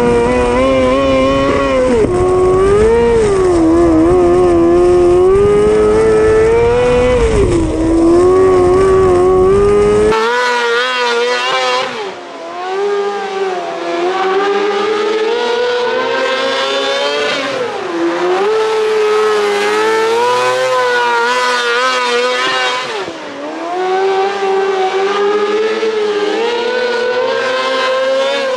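Micro sprint race cars with 600cc engines running laps on a dirt oval. The engine pitch drops every few seconds, going into the turns, and climbs again coming off them. A low rumble underneath cuts off about a third of the way through.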